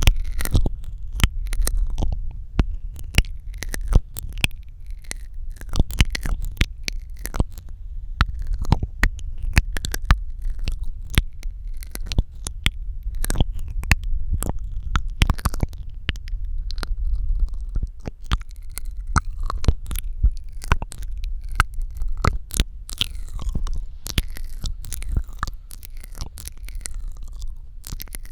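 Close-miked ASMR mouth sounds: wet tongue and lip clicks and smacks in quick, irregular succession, over a low rumble.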